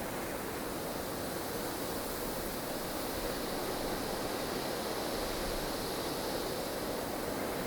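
Snowstorm ambience: strong wind blowing as a steady rushing noise, swelling a little in the middle.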